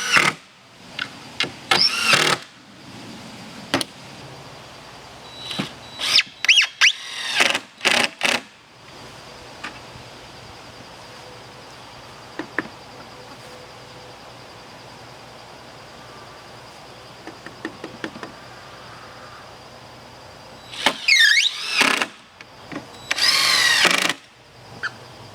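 Power drill driving screws into a wooden frame brace, whirring up and down in several short bursts, then a long pause, then two longer runs near the end.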